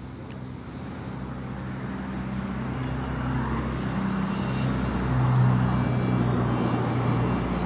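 A motor vehicle engine with a steady low drone, growing steadily louder over about five seconds as it nears, then holding. Its pitch drops about five seconds in.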